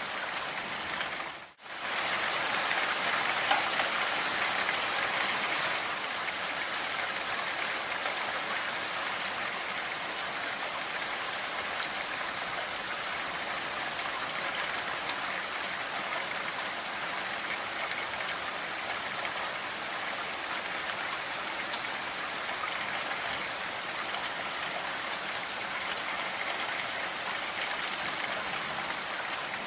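Steady rainfall, an even hiss of many drops, which fades out briefly and comes back about a second and a half in.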